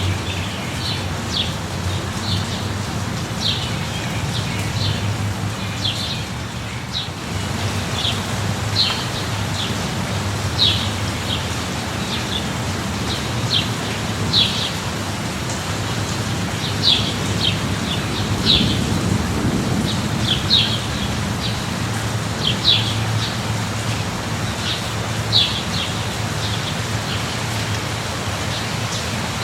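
Steady rain with a low rumble underneath, while a bird repeats short high chirps every second or so.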